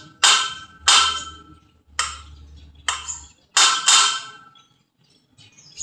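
Metal being struck with a hammer: about six sharp, ringing blows at an irregular pace, stopping about four seconds in.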